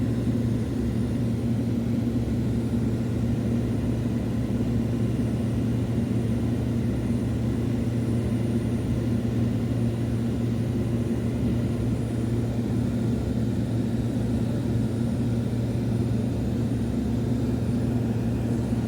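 Aircraft engine drone heard from inside the cabin in flight, steady and unchanging, with a strong low hum.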